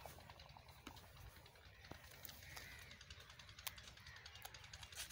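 Faint outdoor ambience with a couple of short bird calls and scattered light clicks.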